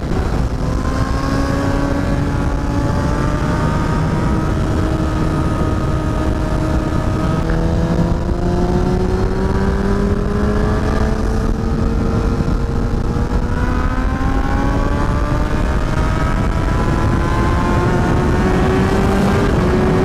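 Kawasaki ZX-10R's inline-four engine pulling under steady acceleration, its pitch climbing slowly and stepping down at each upshift, with wind rumble on the microphone.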